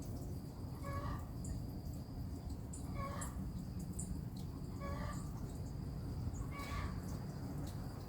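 A bird's short pitched call repeated about every two seconds, with fainter high chirps from small birds and a steady low rumble underneath.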